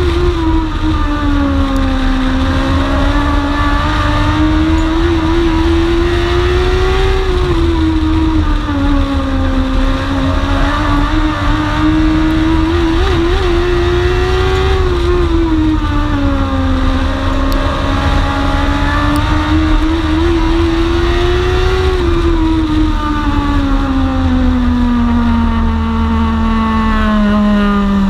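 Onboard sound of a dwarf race car's motorcycle engine running laps on a short oval: the engine note climbs and drops about every seven to eight seconds as the car accelerates down the straights and lifts for the turns. Over the last several seconds the note falls steadily as the car slows.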